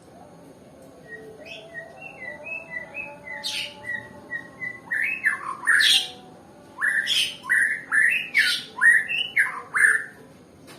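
White-rumped shama (murai batu) calling: a run of short, soft notes starting about a second in, then louder, sharp notes that sweep down in pitch, repeated in quick clusters until near the end.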